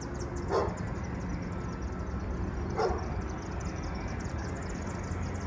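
A dog barks twice, about two seconds apart, over a steady background with a fast, high-pitched chirring.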